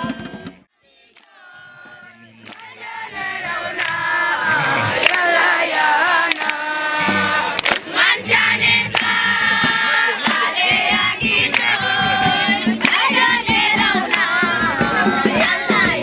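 A group of voices singing together, with sharp beats here and there. The sound cuts out almost completely just under a second in and fades back up over the next two seconds.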